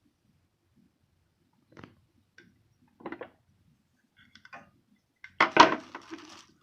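Dishes and utensils being handled on a meal tray: a few light clicks and taps, then a louder clatter with a brief rustle about a second before the end.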